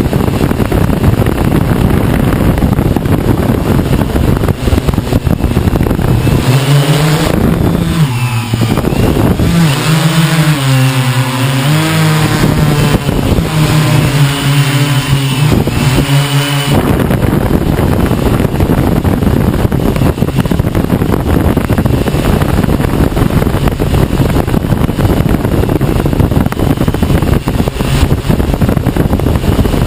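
Strong wind buffeting the microphone, a loud rumbling roar. For a stretch in the middle the wind rumble eases and a hexacopter's propellers are heard as a low buzzing hum, its pitch wavering up and down as the motors change speed against the gusts.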